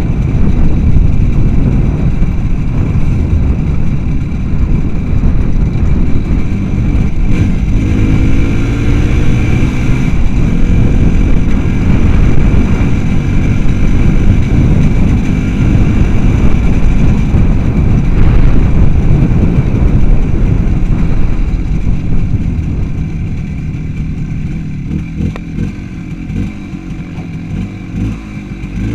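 Motorcycle engine running on the move, its revs rising and falling, growing somewhat quieter over the last several seconds.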